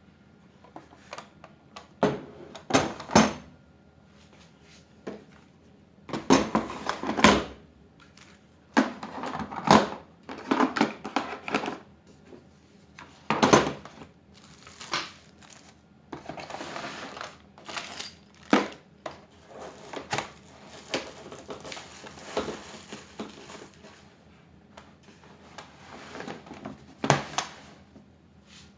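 Irregular clatter of hard objects being handled: scattered knocks, clicks and rattles, with a couple of longer stretches of rustling.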